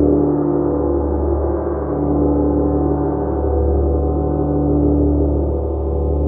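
Large gong ringing on after a stroke: a deep hum under many shimmering overtones, swelling and ebbing in slow waves.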